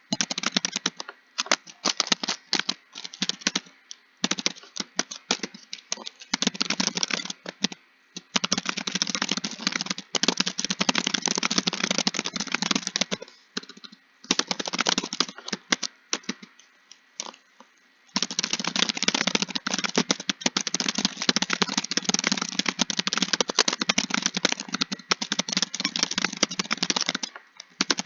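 Typing on a computer keyboard: fast runs of key clicks broken by short pauses, with a long unbroken stretch in the second half.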